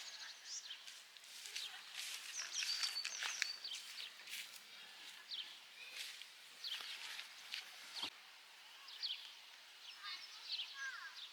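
Small birds chirping: many short, high calls and quick rising and falling notes, scattered irregularly over a faint background hiss.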